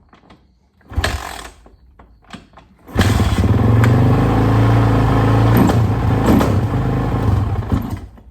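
Suzuki RMZ450 four-stroke single-cylinder dirt bike engine being kick-started on choke: one kick about a second in, then it catches about three seconds in and runs loud with a couple of throttle blips before falling away near the end. This is its first start after a major top-end rebuild with a new cylinder head and cams.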